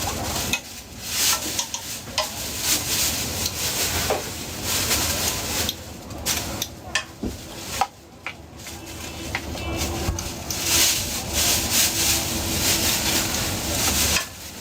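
Food sizzling and frying while a metal utensil repeatedly scrapes and stirs on a hot griddle or pan, with many short scraping strokes and clicks.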